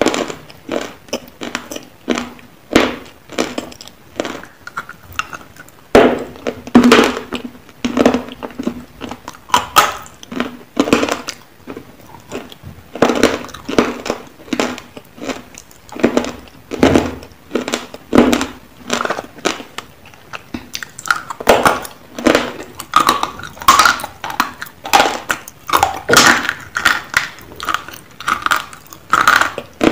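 A person biting and chewing hard, brittle chunks close to the microphone: a run of sharp crunches and cracks, several a second, broken by short pauses.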